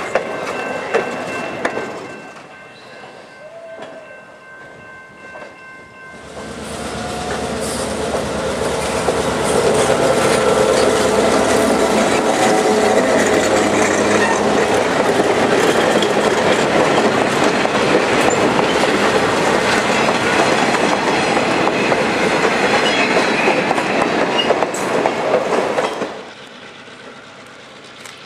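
Train of old passenger coaches rolling past close by, steel wheels clattering and rumbling on the rails. Quieter at first, then a loud steady rush from about six seconds in that stops abruptly near the end.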